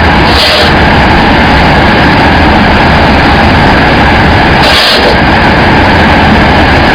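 Rice husk carbonization furnace machinery running with a loud, steady mechanical drone, broken by two short hisses, about half a second in and again near five seconds.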